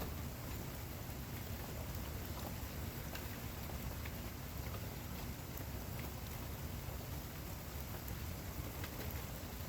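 Steady rain falling, with scattered individual drops ticking against a surface over a continuous low rumble of rainfall.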